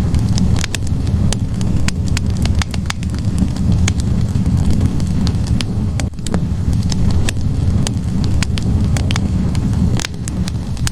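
Wood fire burning in a fireplace: logs crackling and popping at irregular moments over a steady low rumble of the flames.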